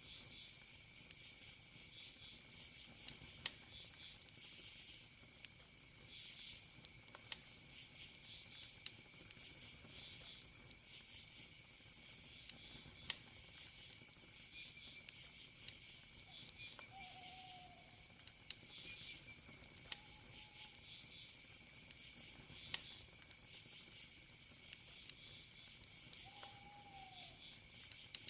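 Campfire wood crackling in sharp, scattered pops over a steady high insect trill and pulsing cricket chirps. Three faint short calls come through in the second half.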